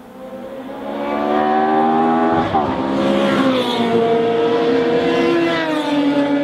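Race car engine at high revs, growing louder over the first second or two as its pitch climbs. The note breaks sharply about two and a half seconds in, falls away, and then holds a steadier, lower note.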